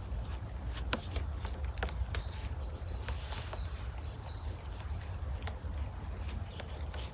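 A small bird gives short high-pitched chirps about once a second, over a steady low rumble, with a few sharp clicks.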